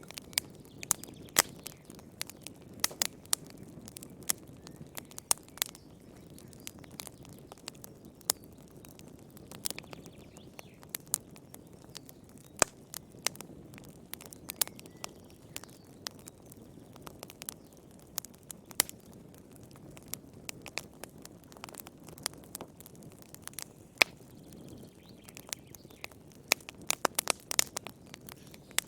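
Wood fire burning in a fireplace: a soft low rush of flames under frequent sharp, irregular crackles and pops of burning firewood, with a quick flurry of pops near the end.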